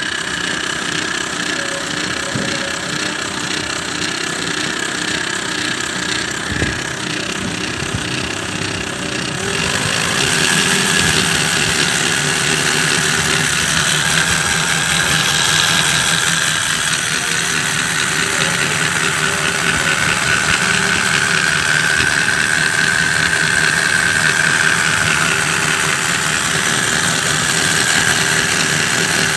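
Homemade V4 model engine running steadily with a high whine. It gets louder and brighter about ten seconds in.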